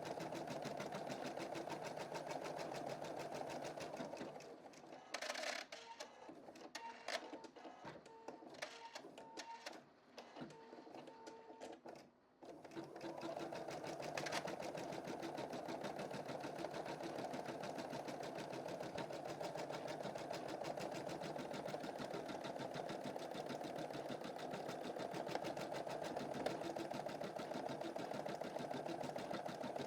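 Computerized embroidery machine stitching at a steady fast rate. About four seconds in it stops, with a few sharp clicks, and it starts stitching again about twelve seconds in.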